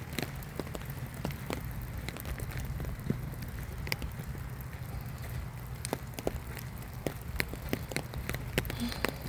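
Rain: raindrops landing close to the microphone as irregular sharp ticks, over a steady low rumble.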